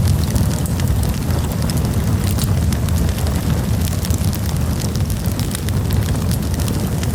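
Campfire burning with a steady low roar and frequent small crackles and pops from the burning wood.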